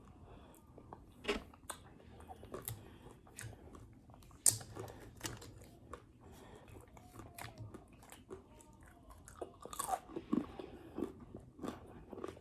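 A person chewing crunchy food close to the microphone: irregular crisp crunches and wet mouth clicks, with the sharpest crunch about four and a half seconds in.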